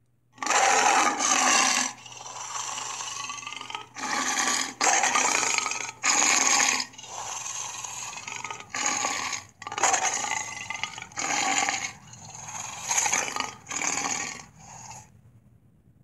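A cartoon allosaurus (Sharptooth) giving a string of roars and growls, about a dozen in quick succession. Loud, rough roars of about a second alternate with longer, quieter growls, and they stop about a second before the end.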